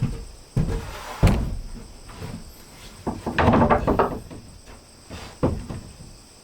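Irregular wooden knocks and thumps from timber being handled and worked: a sharp thud about a second in, a clattering run of knocks around three to four seconds in, and a single knock near the end.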